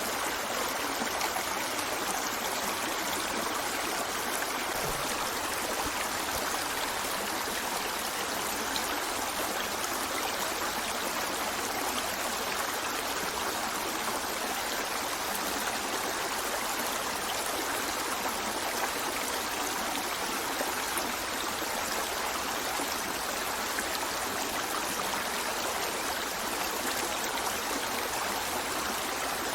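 Stream water flowing and splashing steadily, a constant rushing hiss with no breaks.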